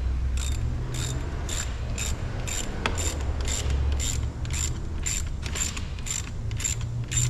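Hand ratchet with a 10 mm socket clicking as it is swung back and forth to tighten a nut, about two strokes a second, with a low rumble underneath.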